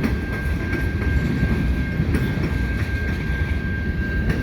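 Freight train cars rolling past at a grade crossing: a steady low rumble with a few scattered clicks of wheels over rail joints and a steady high-pitched tone over it.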